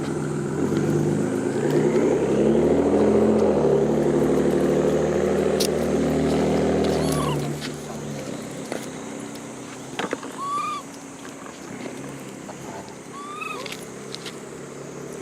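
A motor vehicle's engine running steadily, then fading away about seven seconds in. After it come a few short calls from a monkey, each rising and then falling in pitch.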